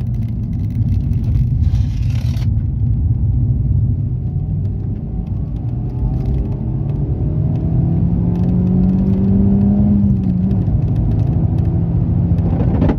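Suzuki Swift Sport ZC32S's 1.6-litre M16A four-cylinder engine running, breathing through a PFX300 intake filter and a GReddy sport-catalyst exhaust manifold. There is a brief hiss about two seconds in. The engine note climbs from about seven seconds in, holds higher for a few seconds, then drops back near the end.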